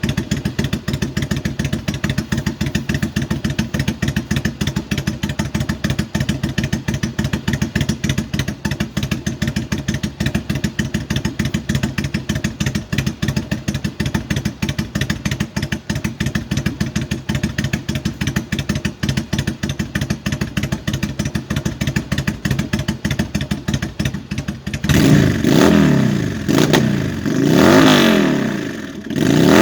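2005 Yamaha V-Star 1100 Classic's air-cooled V-twin idling steadily on its first start of the year, then blipped up three times near the end, each rev rising and falling back.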